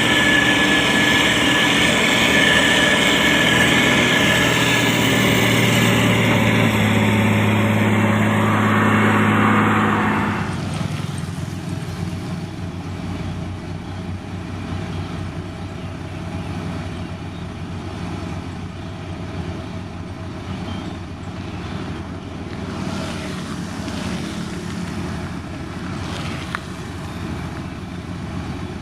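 Motor grader's diesel engine running with a steady high whine for about ten seconds, then turning suddenly quieter and running on at a lower level.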